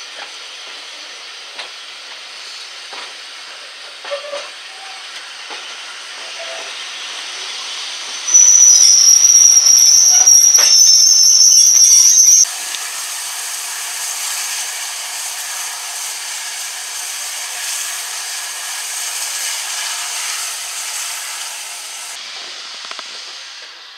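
Onboard sound of a steam-hauled train running slowly, a steady rushing hiss. About eight seconds in, a loud, high-pitched metallic squeal from the train holds for about four seconds and cuts off sharply. A louder rushing noise follows and eases off near the end.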